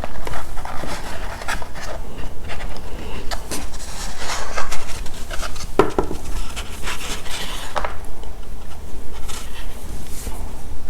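Close-miked eating of crunchy chocolate snacks: irregular crunching and chewing with small clicks and scrapes, over a steady low hum.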